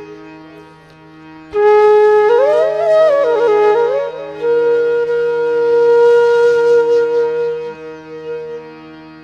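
Background flute music over a steady drone: a flute phrase enters about one and a half seconds in with quick ornamented turns, then settles on a long held note that fades near the end.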